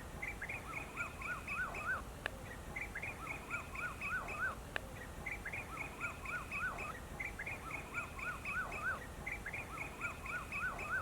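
A bird singing the same phrase over and over, about every two and a half seconds: a quick string of short high notes, then several lower, arching notes that climb in pitch.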